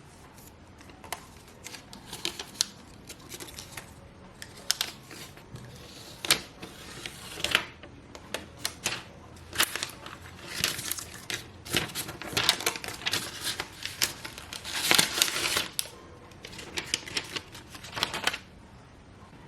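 Irregular clicks and taps with short bursts of crinkling, as packaging is handled and opened by hand.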